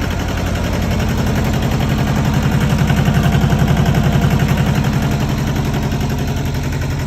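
John Deere 650 tractor's Yanmar diesel engine running with a rapid, even pulsing. It grows a little louder for a few seconds in the middle, then settles back.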